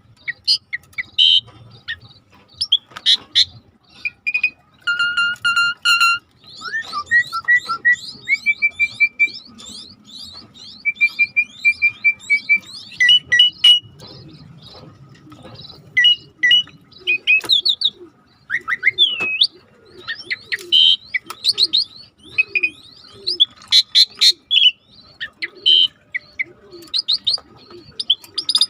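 Mixed wild birds calling and singing together: quick chirps, clear held whistles and short trills, with a run of low, short, falling calls repeating about twice a second in the second half.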